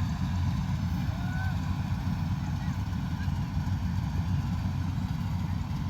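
Combine harvester's engine running steadily in the field: an even, low rumble. A few faint short calls sound above it.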